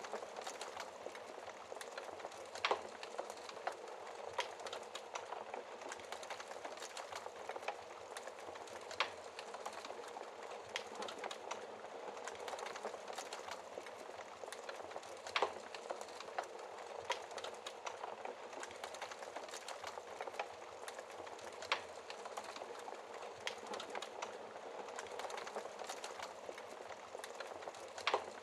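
Wood fire burning in a fireplace: a steady soft hiss with frequent irregular crackles and a few louder pops.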